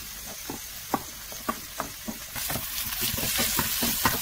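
Diced red bell pepper sizzling in hot duck fat with onion and garlic in a stainless steel pot, stirred with a spoon that clicks and scrapes irregularly against the pan. The sizzle grows louder about two seconds in.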